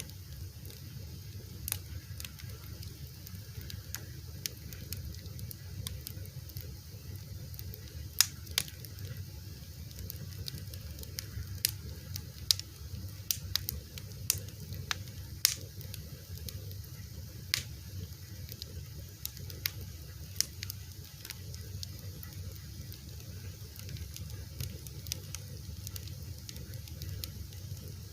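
Fire crackling: irregular sharp pops and snaps, a few of them louder, over a steady low rumble.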